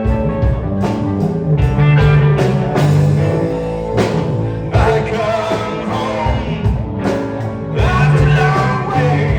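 Live rock band playing: drums, bass and electric guitar, with a singing voice.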